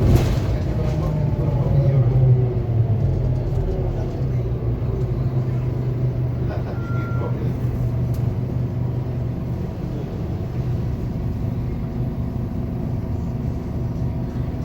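A 2021 Scania K280UB4 bus running, its whine falling in pitch over the first few seconds and then settling into a steady drone. A brief high beep sounds about seven seconds in.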